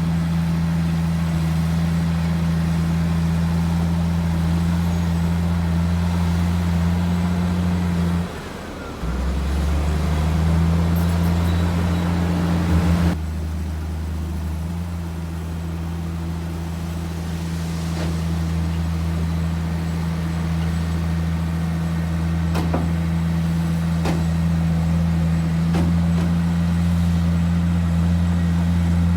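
Heavy diesel engine of earthmoving machinery running with a steady low drone. About eight seconds in, the sound briefly drops and settles at a slightly different pitch, and it shifts again a few seconds later.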